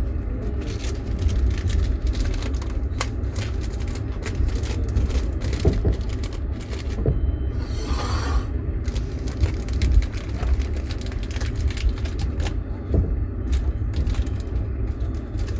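Passenger train running, heard from inside a platzkart sleeper carriage: a steady low rumble of the wheels with irregular knocks and rattles, and a brief hiss about halfway through.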